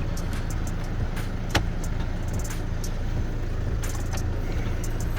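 Audi car engine idling steadily, with a few sharp clicks and knocks from work inside the cabin, the clearest about a second and a half in.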